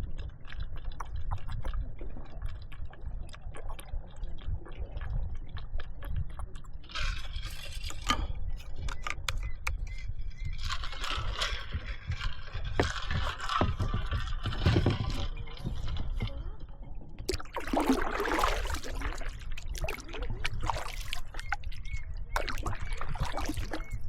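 Water splashing and gurgling around a kayak in several spells, over a steady low rumble.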